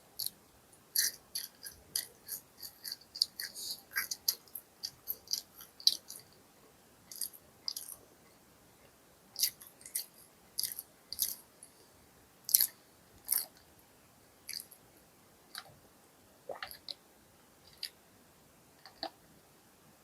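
Close-miked chewing of crispy fried fast food: crunchy, crackly bites, dense for the first six seconds and sparser after.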